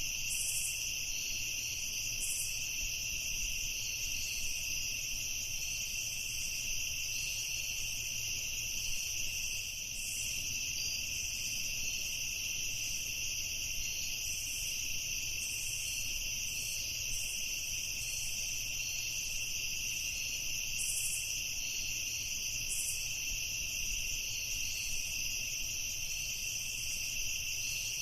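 Night-time crickets chirping in a steady, unbroken high trill, with short higher chirps now and then.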